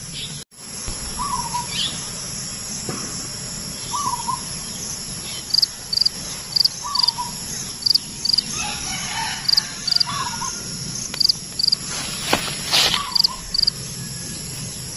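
Outdoor insect chorus: a steady high cricket drone, with sharp short high chirps about twice a second from about five seconds in. A bird gives a short two-note call about every three seconds, five times.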